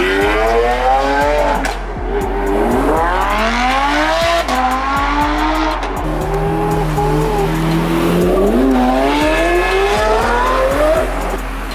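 Supercar engines accelerating hard as cars pull away. The pitch climbs and drops again and again through the gear changes, with short sharp cracks scattered throughout.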